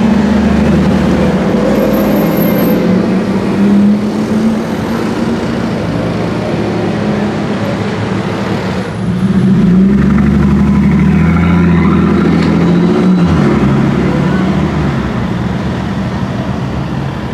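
Brabus G 800's 6.0-litre twin-turbo V12 running loud under throttle, easing off after a few seconds, then a second loud pull from about ten seconds in whose pitch shifts around thirteen seconds before fading away.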